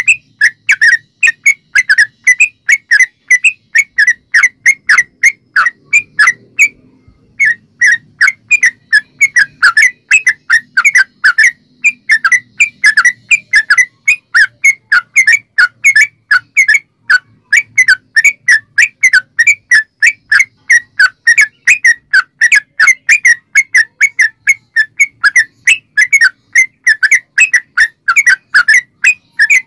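Yellow-vented bulbul (trucukan) singing a long, rapid rattling song of short chirping notes, several a second, with one short break about seven seconds in.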